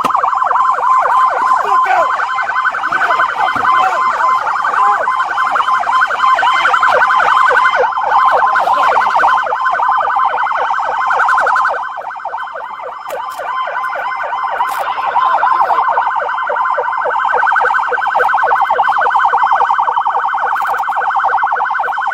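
Police car siren sounding a fast, repeating up-and-down yelp, which dips briefly about halfway through and then resumes.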